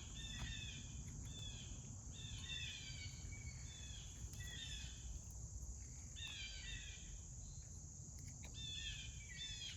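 Songbirds singing in repeated quick phrases of short falling chirps, over a steady high-pitched insect buzz.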